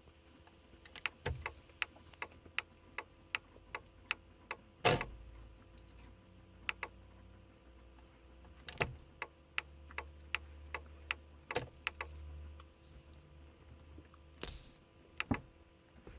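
VW Passat's indicator clicking, ticking about two to three times a second with no indicator switched on: the fault the owner is trying to cure. A louder knock comes about five seconds in, and a low hum runs under the ticks for several seconds in the middle.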